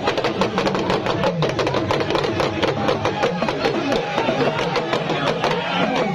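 Drumming, with quick, fairly regular strikes, over the clamour of a crowd's many voices.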